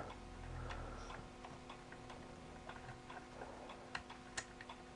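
Faint, regular light ticking, about two ticks a second, over a low steady electrical hum.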